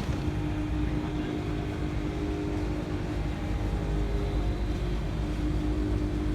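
Steady mechanical drone of running machinery: a constant hum over a low rumble, with no change in pitch.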